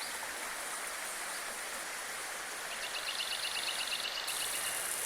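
Steady rush of spring water flowing over rocks at a hot spring. About three seconds in, a fast trill of short chirps joins it for about a second and a half.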